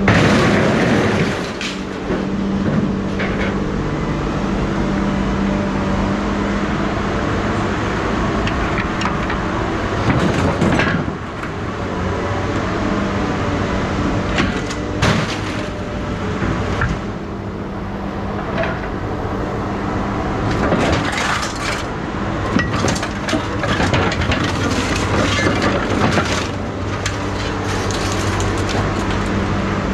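A steady engine hum runs under scattered metallic knocks, clinks and cracks, the sounds of scrap metal being worked and handled. The impacts come thickest in the second half.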